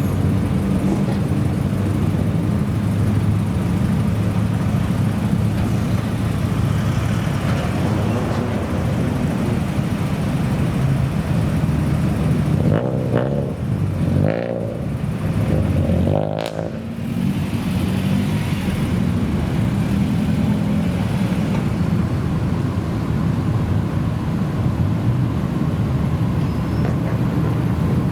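Modified Japanese car's engine running loud through an aftermarket exhaust, a steady low drone, with a brief dip and shifting pitch about halfway through.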